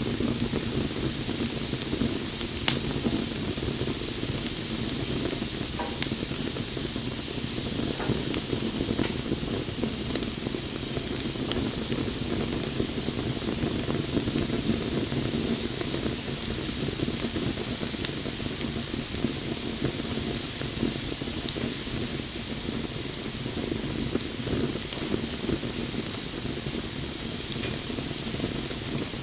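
Wood bonfire burning with a steady hiss and rumble of flame, broken by scattered sharp crackles and pops; the loudest pop comes about three seconds in.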